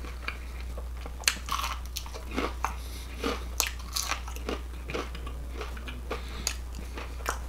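A person biting into and chewing crispy breaded fried shrimp, giving a series of irregular crisp crunches.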